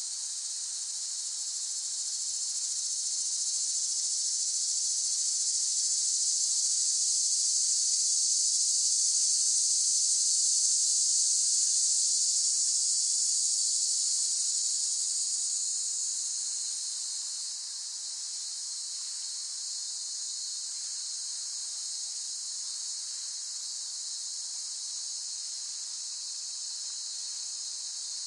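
Cicadas chorusing: a dense, steady, high-pitched buzz that swells louder over the first dozen seconds, then eases back and holds steady.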